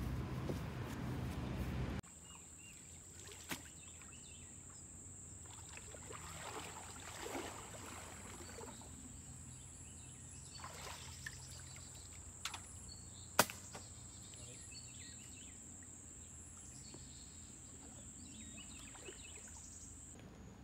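Rain hissing steadily, cut off abruptly about two seconds in. What follows is quiet, with a faint steady high-pitched whine and a few sharp clicks.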